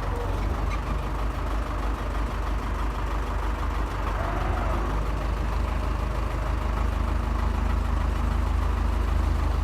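Tractor diesel engine idling steadily, its low rumble growing slightly louder through the second half.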